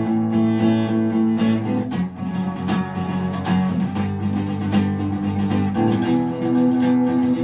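Acoustic guitar strummed in an instrumental break of a song, chords ringing with a regular strumming rhythm.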